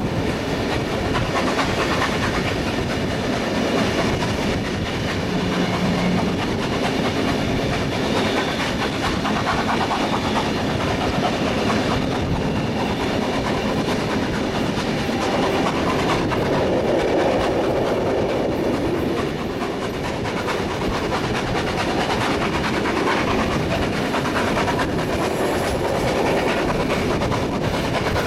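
Passenger carriages of a train hauled by steam locomotive 3642 running steadily along the line, wheels clicking over the rail joints, with a continuous rush of running noise heard from a carriage window.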